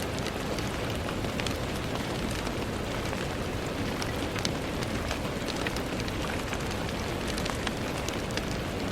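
Steady rain on a window: an even hiss scattered with many small, sharp ticks of drops striking the glass.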